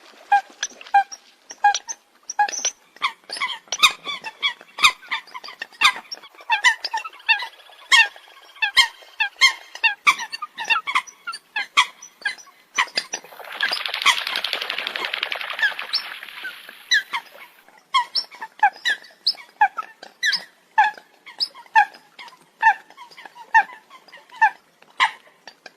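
Eurasian coots calling: many short, sharp, high calls in rapid irregular succession, with a noisy hiss-like stretch of about four seconds near the middle.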